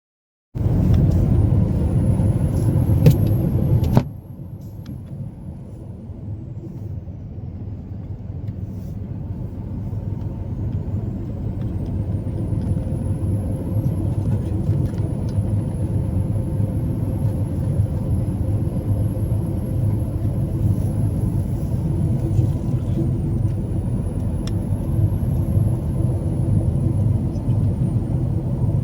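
Truck on the road: a steady low engine and road rumble that builds gradually over several seconds and then holds. It is preceded by a louder, rougher stretch of noise that cuts off suddenly about four seconds in.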